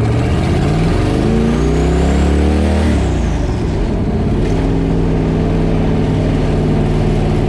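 Twin-turbo small-block Ford V8 accelerating hard through the gear for about three seconds, its note climbing with a rising turbo whistle, then the driver lifts off and the revs and whistle fall away. A brief hiss follows about a second later, then the engine settles into a steady cruise.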